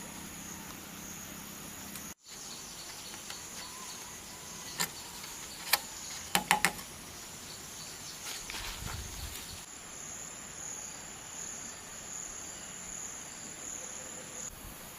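Insects chirring in a steady high drone, with about five sharp knocks from around the fifth to the seventh second, the last three in a quick cluster.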